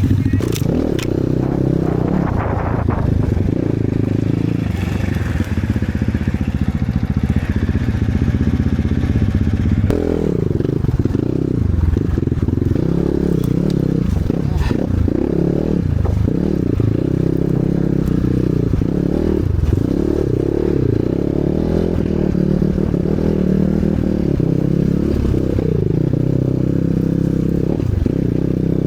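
Enduro motorcycle engine running under load, its revs rising and falling again and again, with occasional knocks.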